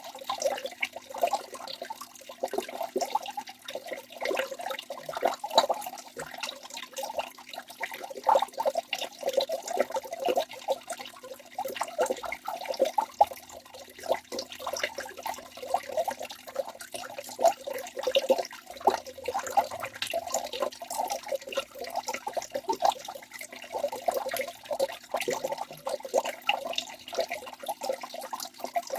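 Waterfall rushing and splashing continuously: a dense, uneven patter of splashes without a deep rumble.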